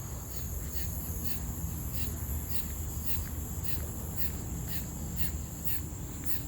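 Insects chirping in a steady rhythm, about three chirps a second, over a continuous high-pitched insect drone, with a low steady rumble underneath.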